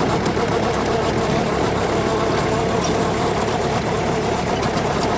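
JCB 3DX backhoe loader's diesel engine running steadily at a constant pitch.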